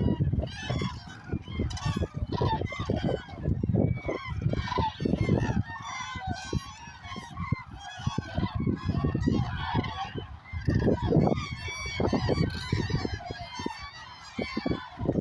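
A large flock of common cranes calling, many trumpeting calls overlapping continuously, with a low rumble coming and going underneath.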